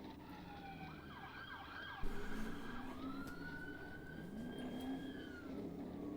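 Police car siren sweeping up and down in pitch, switching from a fast warble shortly after the start to slower, longer sweeps. A sudden thump about two seconds in is the loudest moment.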